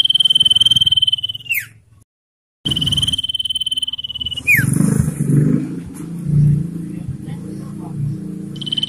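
Common iora giving its long drawn whistle twice, each a steady high note held nearly two seconds that drops sharply in pitch at the end. Under the second half runs a low, uneven throbbing noise.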